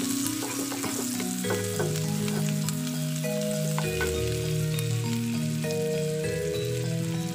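Chopped onion, garlic and ginger sizzling in hot oil in a frying pan, stirred with a wooden spatula that scrapes and ticks against the pan. Soft background music of slow held notes plays under it.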